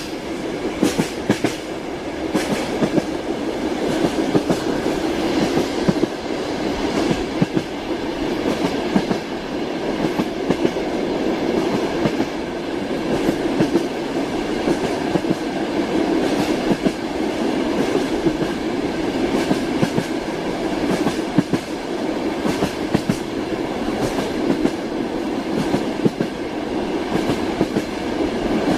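Train wheels clattering over the rail joints as the train runs along: a steady rumble with sharp clacks in small irregular groups.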